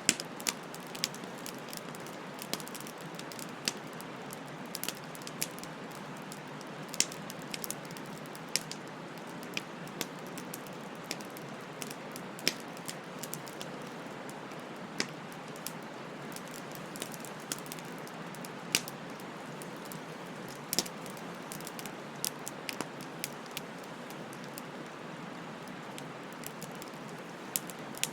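Wood bonfire burning: a steady hiss with sharp pops and crackles scattered at irregular intervals, a few of them much louder than the rest.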